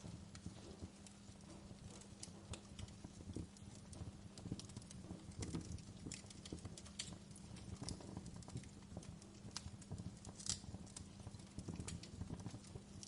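Wood fire crackling in a fireplace: faint, irregular snaps and pops, with one sharper pop about ten and a half seconds in, over a steady low rumble.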